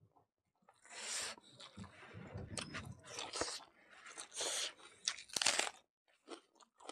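Close-up mouth sounds of eating mutton curry and rice by hand: chewing with crunches and wet smacks, in bursts with short pauses. It starts about a second in and stops a little before the end.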